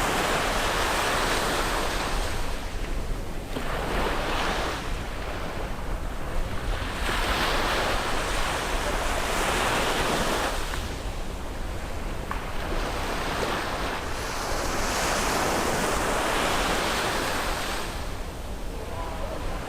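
Sea waves breaking and washing up on a beach, the surf swelling and easing every few seconds over a steady low rumble, with some wind on the microphone.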